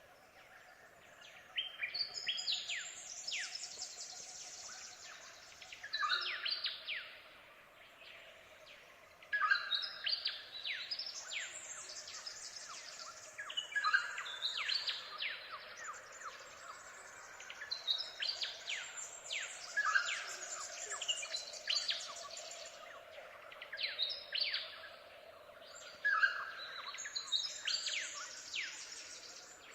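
Birdsong: bursts of quick, high chirping notes every few seconds, over a faint steady hum.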